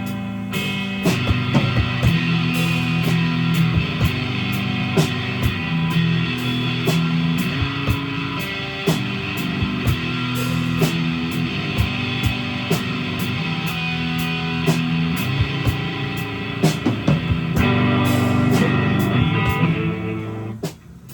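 Live rock band playing: electric guitar chords over bass and drum kit with a steady beat, stopping abruptly near the end.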